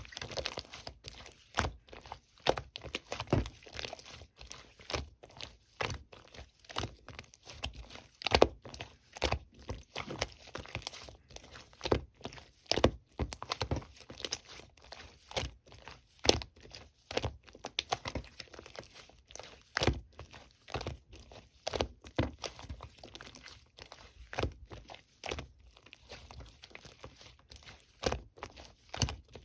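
Hands squishing and stretching slime, making an irregular run of sharp clicks, pops and crackles, several a second.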